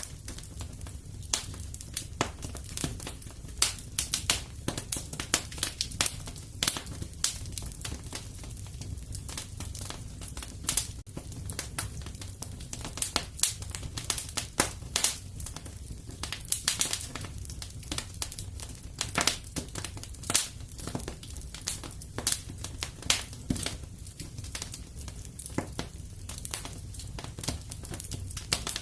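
Wood fire crackling in a fireplace: a low, steady rumble of flames with frequent irregular sharp pops and snaps.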